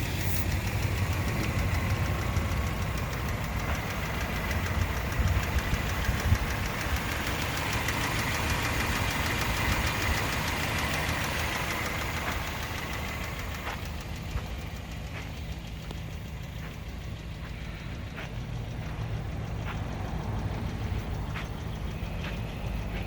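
A 1987 Toyota pickup's engine idling steadily, running smoothly, with a few light clicks in the second half.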